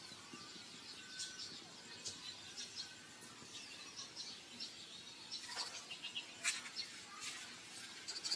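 Small birds chirping on and off over steady outdoor background noise, with a couple of sharp clicks about two-thirds of the way through.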